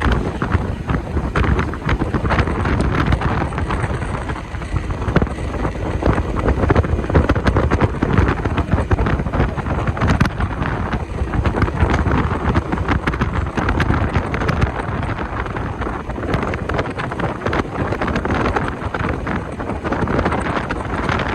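Wind buffeting the microphone on a moving motorcycle: a loud, gusty rumble with crackles over the noise of the ride.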